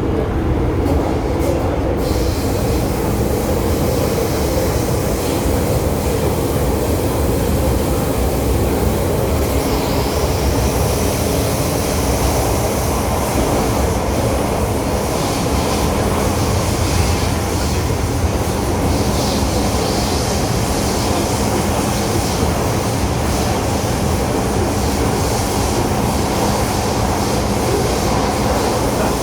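MTR M-Train (Metro-Cammell electric multiple unit) running along the track: a steady loud rumble of wheels on rail, with high squealing tones from the wheels coming in about ten seconds in.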